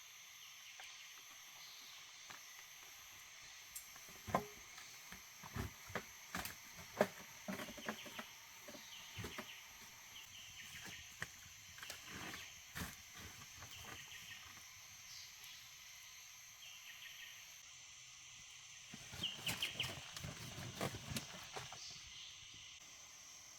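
Insects chirring and chirping steadily in the forest, with scattered sharp clicks and knocks through the middle and a denser cluster of them near the end.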